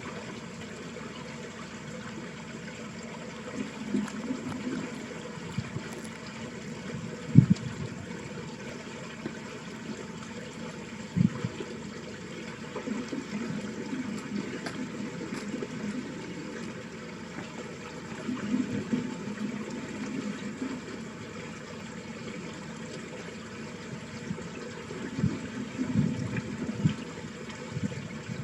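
Water running steadily along a small village ditch, with low gusts of wind thumping on the microphone now and then, the strongest about seven seconds in.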